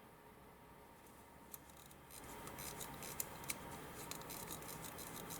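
The screw-down crown of a Vostok Amphibian watch being turned by hand. From about two seconds in there is a run of fine, rapid clicks and rubbing.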